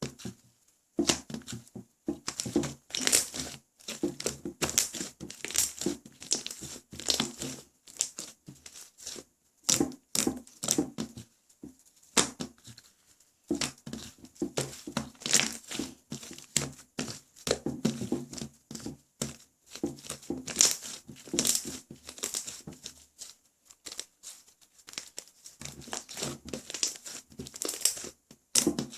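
White clay-mixed slime being kneaded and stretched by hand, giving dense clusters of small clicks and pops, broken by short pauses between handfuls.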